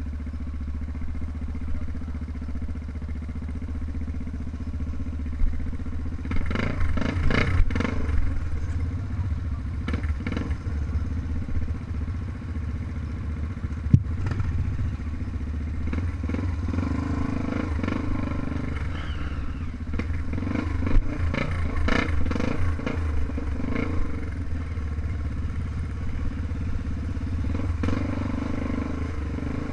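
Off-road trail motorcycle engine running steadily while riding, with clusters of clattering and knocking from about six to eight seconds in and again later, and one sharp click midway.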